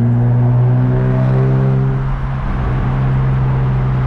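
Car engine running at a steady speed while driving, heard from inside the cabin as a constant low drone.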